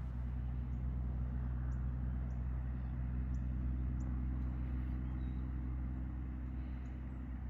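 A steady low mechanical hum, with a few faint high ticks.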